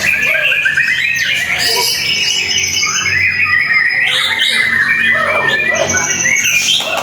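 White-rumped shama (murai batu) singing a fast, varied run of chirps, trills, whistles and harsh notes without a break.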